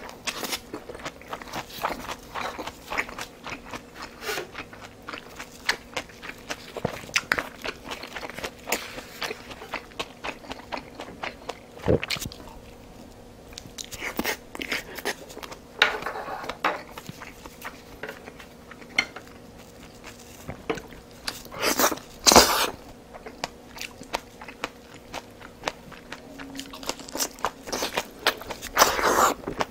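Close-miked mukbang eating sounds: a person chewing and biting food, many short crunchy clicks with a few louder bursts.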